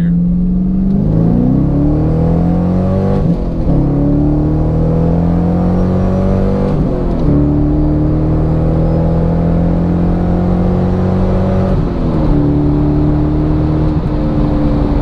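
C5 Corvette's 5.7-litre LS1 V8 pulling hard through the gears of its manual gearbox, heard from inside the closed cabin. The engine note climbs, then breaks and drops at an upshift about three seconds in, again about seven seconds in and again about twelve seconds in. Between the shifts it runs nearly steady.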